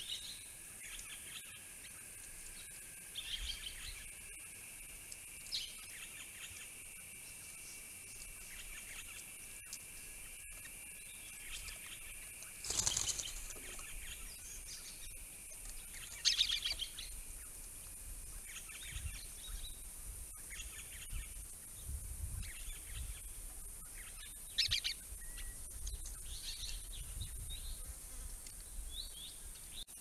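Scattered bird calls and chirps over a steady high hiss. A steady thin tone runs under them for the first dozen seconds. A louder, harsher sound comes about 13 seconds in and another a few seconds later.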